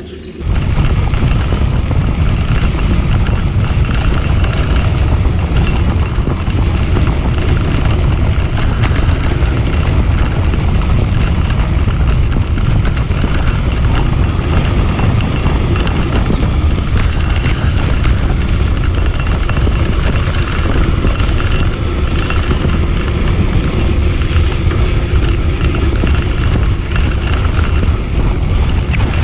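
Steady, heavy wind buffeting on the microphone, with rattle and rumble from riding a bicycle along a forest track.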